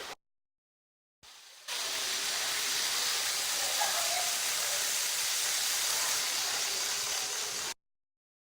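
Steady hissing room noise around a running model railway layout, with the whirr and rolling of model trains blended in. It cuts in after a second of dead silence, rises to its full level a moment later, and cuts off abruptly near the end.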